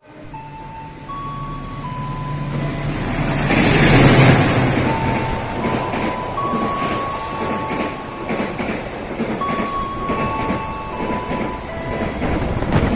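A train passing close by, loudest about four seconds in, then running on with rattling. A run of steady high tones changes pitch in steps throughout.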